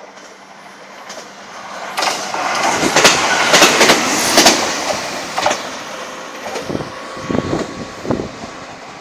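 Stainless-steel electric commuter train running past close by at a station, wheels clicking over the rail joints. The noise builds about two seconds in, is loudest around three to four and a half seconds in, then fades, with a few scattered knocks later on.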